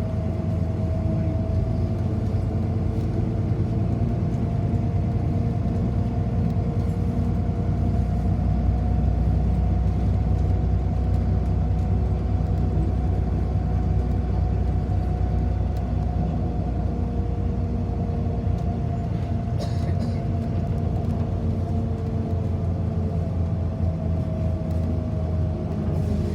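Inside a city bus on the move: a steady low rumble of the drivetrain and road, with a thin whine that rises slightly and then falls away near the end.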